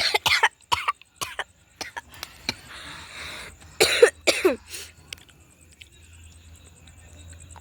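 A child coughing in short bursts, several in the first second and a half and a louder cluster about four seconds in.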